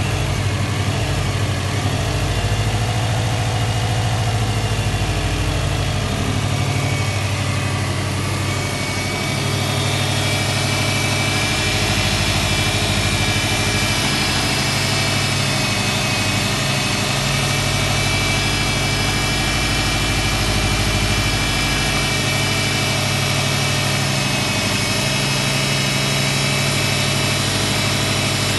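Subaru EJ205 2.0-litre flat-four boxer engine idling steadily, with a faint high whine that grows stronger about ten seconds in.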